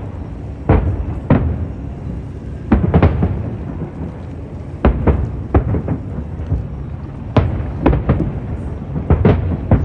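Aerial fireworks shells bursting in an irregular series of booms, about a dozen, some in quick pairs, over a continuous low rumble.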